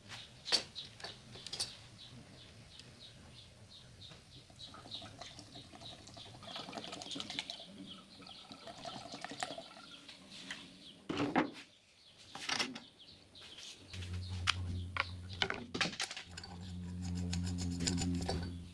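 WD-40 poured from a gallon jug into a pump sprayer, with clicks and knocks of the plastic jug and sprayer being handled. A low steady hum sets in about three-quarters of the way through, breaks briefly, and runs on to near the end.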